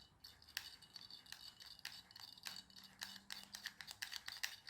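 Light handling noises: irregular small clicks and taps of plastic parts being picked up and turned over by hand.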